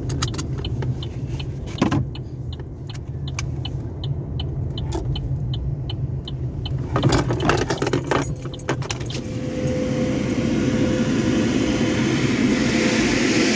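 Car wash tunnel machinery running: a low rumble with a steady ticking, about three ticks a second, then a burst of clattering knocks partway through. After that a loud, steady rush of air or spray builds toward the end, like dryer blowers or high-pressure jets starting up.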